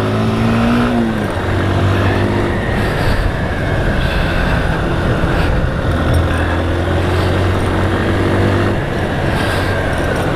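Motorcycle engine running at moderate revs, its pitch falling about a second in and then holding fairly steady with small rises and dips, under a constant rush of wind and road noise.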